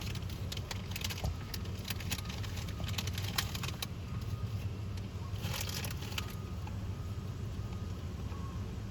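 Sharp crackles and crunches of a Cheetos bag being handled and the snacks eaten, in clusters over the first few seconds and again briefly about halfway through. Under it runs the steady low hum of an idling vehicle.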